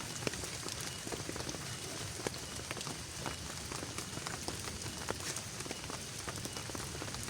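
Steady rain falling, with many irregular drops tapping sharply on a nearby surface.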